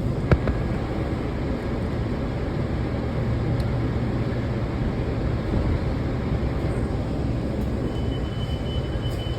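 Washington Metro railcar standing at a station with the doors open: a steady low hum from the car's equipment and ventilation, with one sharp click just after the start and a faint high steady tone coming in near the end.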